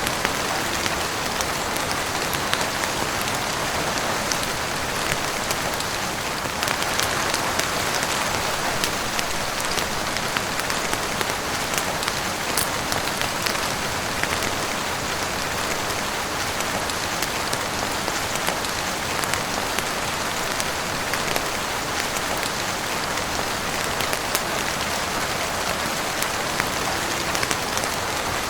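Heavy rain falling steadily on a roof, a dense even hiss dotted throughout with sharp little ticks.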